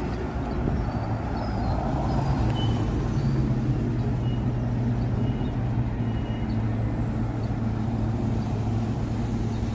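Steady low hum of vehicles in a city street, with even background noise and a few faint short high chirps.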